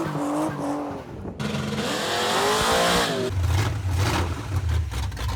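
Car sound in abrupt cuts: a wavering squeal over loud noise, typical of tires spinning with the engine revving, then a low, pulsing engine rumble in the last couple of seconds.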